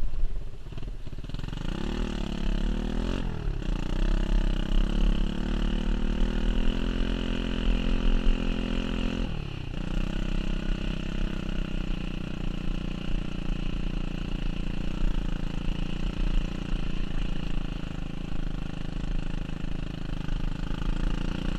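Pit bike's small single-cylinder four-stroke engine running and revving, its pitch rising about two seconds in, holding, then dropping sharply near the halfway point before running on at a steadier, lower pitch, over a constant low rumble.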